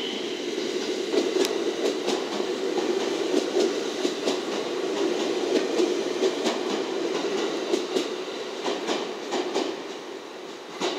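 JR West 227 series electric multiple unit running past and pulling away, a steady rumble with the wheels clacking over rail joints, fading toward the end as the train draws off.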